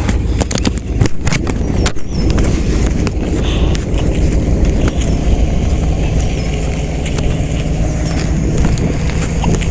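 Riding noise from a bicycle: wind buffeting the microphone and tyres rolling over the road in a steady low rumble, with a few sharp clicks and rattles in the first two seconds.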